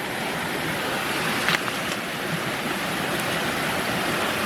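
Mountain stream rushing steadily, with a single short knock about a second and a half in.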